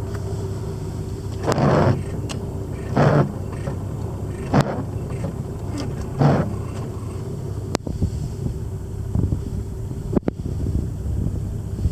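Jaguar Mk 2's straight-six engine running steadily, with four short louder surges about a second and a half apart in the first half and a few sharp clicks later on.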